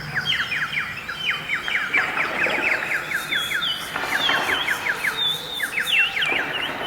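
A chorus of many overlapping bird-like chirps and whistles from the participatory orchestra's bird calls: quick, sharp, downward-sweeping chirps, with a higher whistle that joins about halfway through.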